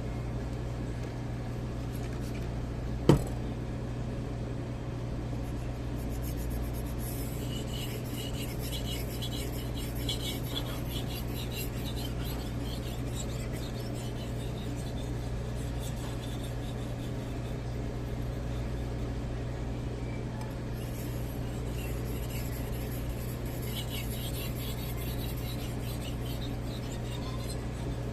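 Knife blade being stroked on a Shapton Glass 2000 whetstone, a fine rapid scraping in two stretches, over a steady low hum. A single sharp click about three seconds in.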